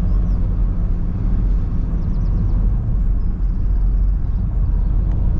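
A 2.4-litre 4x4 car driving along a winding hill road, heard from inside the cabin: a steady low rumble of engine and road noise.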